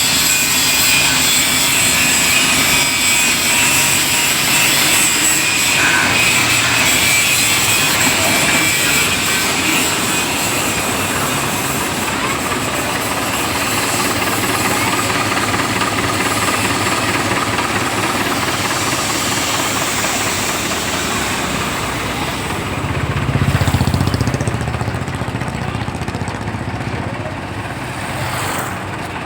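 Mahindra DI 475 tractor's diesel engine running steadily, with a brief swell of deeper rumble about three-quarters of the way through.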